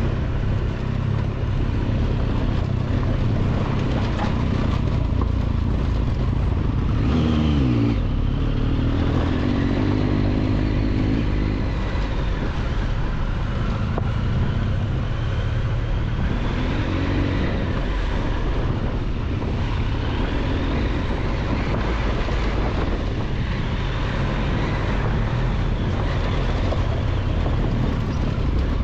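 Triumph Tiger 1200 XCX's three-cylinder engine running under way on a dirt road. Its note drops sharply about seven seconds in, then picks up again and keeps rising and falling with the throttle.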